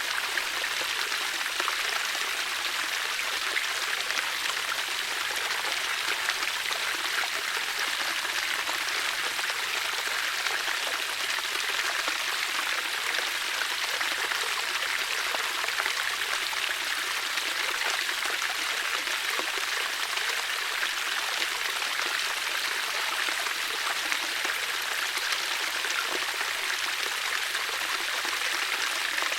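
Water flowing steadily in a stream, an even, unbroken rush with no other events.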